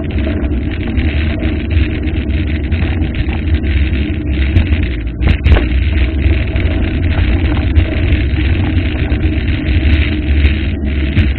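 Loud, steady rush of a waterfall, with a deep rumble underneath.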